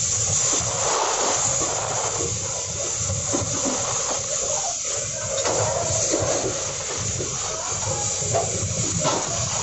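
Coal train's open hopper wagons rolling past close by: a steady rush of steel wheels on the rails, with scattered low knocks from the wheelsets and couplings.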